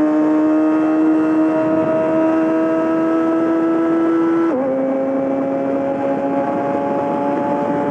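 Yamaha R6 inline-four with a full M4 exhaust pulling under steady acceleration, its pitch climbing slowly. About four and a half seconds in the revs drop sharply at an upshift, then start climbing again in the next gear.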